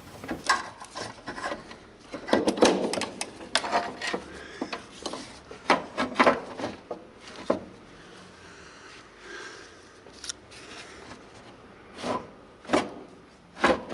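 Saab handbrake cable sheath being pulled out from under the car, rubbing and scraping against the underbody in irregular strokes, with a few short knocks.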